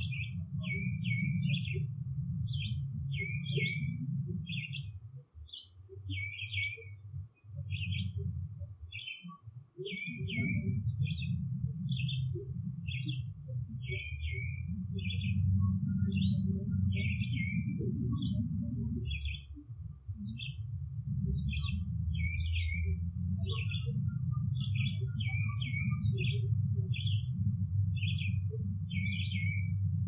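A bird singing short, sharp chirped phrases over and over, about one to two a second. Under it is a loud low rumbling noise that drops away briefly a few times in the first third.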